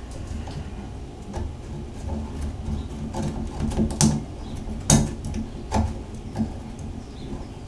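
Light clicks and knocks of small parts of a Moen shower valve being handled and fitted back into place, with two sharper knocks about four and five seconds in.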